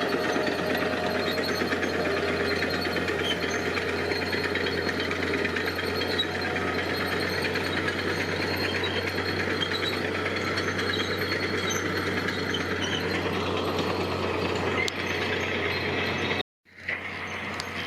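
Heavy diesel construction machinery running steadily, with a constant low engine hum under a fast mechanical rattle. It cuts out abruptly for a moment near the end and resumes a little quieter.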